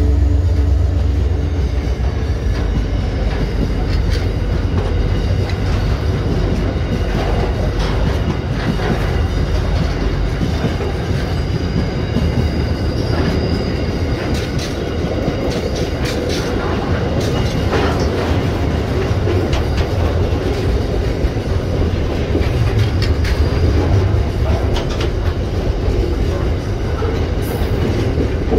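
Freight train wagons, empty container flats and then loaded container wagons, rolling past at close range: a steady heavy wheel rumble with a constant run of clicks and clatter as wheels pass over the rail joints. The lead diesel locomotive's engine hum dies away in the first couple of seconds, and a faint wheel squeal comes in for a few seconds about halfway through.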